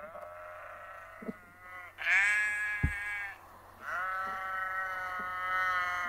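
Sheep bleating three times: a long bleat, a louder, higher bleat about two seconds in, and another long bleat from about four seconds in. A brief low thump comes partway through the loud bleat.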